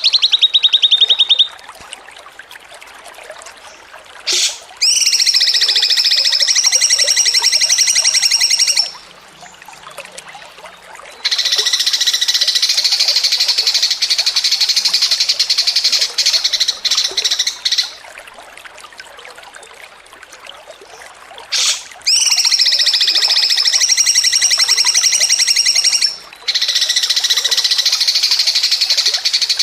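A songbird's rapid, high-pitched buzzing trill, sung in long phrases of about four to six seconds with short pauses between. Several phrases open with a brief sharp note before the trill.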